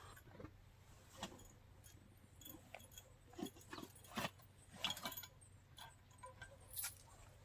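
Scattered light clicks and clinks, about a dozen irregular taps, a few of them with a short ring, as of small hard objects being handled.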